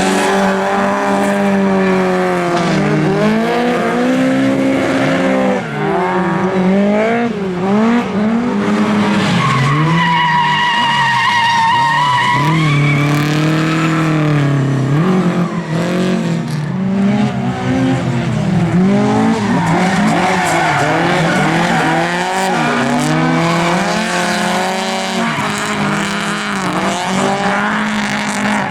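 Lada race car engines revving hard and dropping back again and again through gear changes, several cars at once. About ten seconds in, a high, wavering tyre squeal lasts for a couple of seconds.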